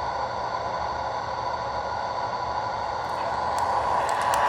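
MTH O-gauge model subway train running on the layout's track: a steady whir and rumble that grows louder, with sharp clicks from wheels on the rails starting about three and a half seconds in.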